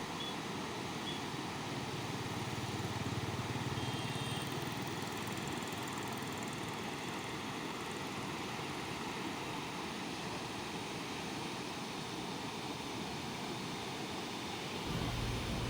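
Steady road and engine noise of an Ashok Leyland Dost light truck on the move: an even hiss over a low hum, with no changes in speed.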